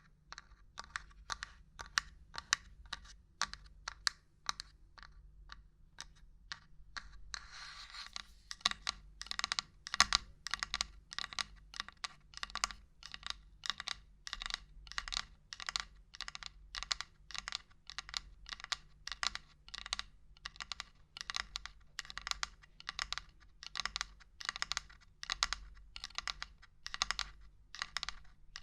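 Quick, uneven knocking and tapping on hard objects, several sharp taps a second, with a brief scratching sound about eight seconds in.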